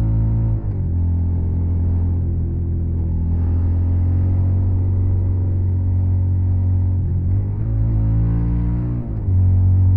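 Suzuki SV650's 90-degree V-twin engine running through a Yoshimura Alpha carbon exhaust, holding steady revs. The revs drop sharply about half a second in, and change again with a dip shortly before the end.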